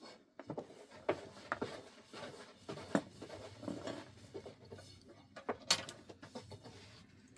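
Irregular light knocks, clicks and rustling of things being handled, with sharper knocks about three seconds in and near six seconds in.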